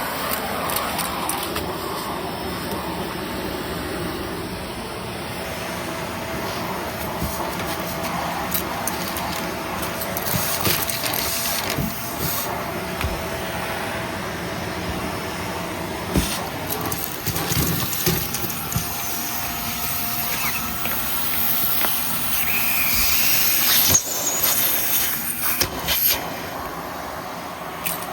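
Vacuum cleaner running steadily with a faint steady whine, and scattered clicks and rattles of debris being picked up.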